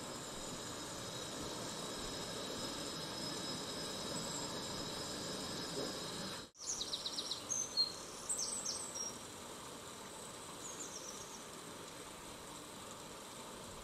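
Paratha frying in oil on a tawa, a faint steady sizzle. About halfway through the sound drops out for a moment, and short high-pitched chirps follow over the next couple of seconds.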